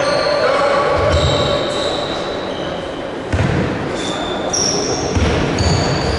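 Basketball game play in a reverberant gym: a ball bouncing on the court in low thuds, with short high squeaks from players' shoes.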